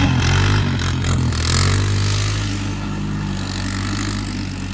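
Four-wheeler (ATV) engine running at a steady pitch, louder for the first couple of seconds and then easing slightly.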